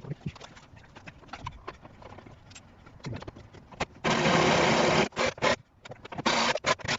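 Scattered clicks and knocks of hand work on a car's rear suspension, then a loud power tool runs for about a second and again in several short bursts near the end.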